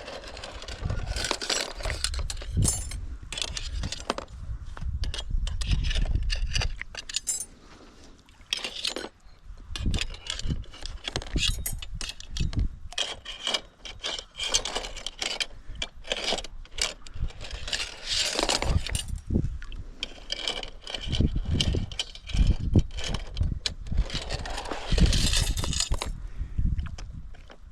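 Metal clinking, jangling and scraping, with scattered knocks throughout: steel pieces and tools being handled.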